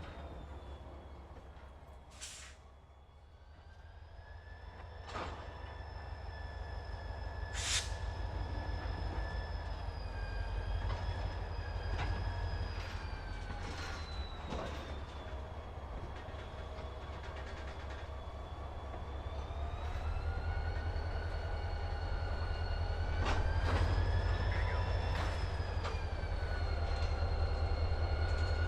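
Slow-moving freight train: a diesel locomotive's low rumble under long, wavering wheel-flange squeal, with a few sharp metallic clanks. It grows louder as the train comes closer.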